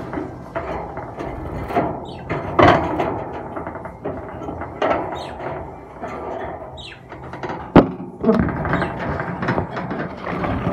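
Pet budgerigars chattering and squawking in short, irregular calls, with one sharp click nearly eight seconds in.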